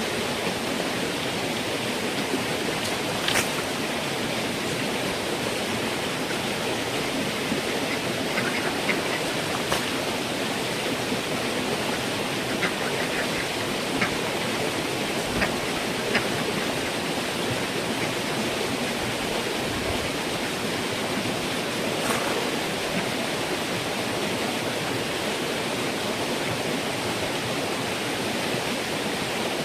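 A steady, even rushing noise, like running water, with a few faint sharp clicks scattered through it.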